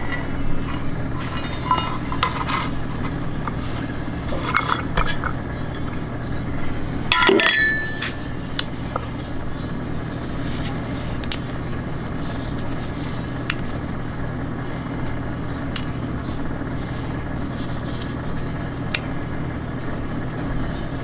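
Glass and dishware clinking: a few light clinks in the first few seconds and a louder, ringing clink about seven seconds in, followed by occasional small ticks over a steady low hum.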